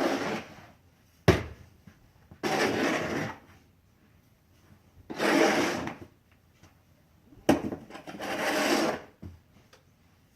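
Snow shovel scraping through dry snow in four strokes about two and a half seconds apart, with two short sharp knocks of the blade in between.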